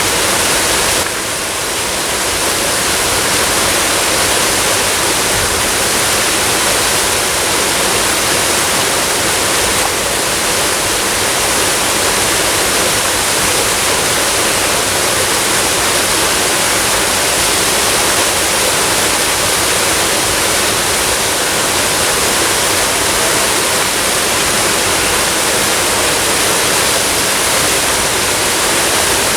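Steady rush of a waterfall, water pouring and splashing without a break, with a brief dip in level about a second in.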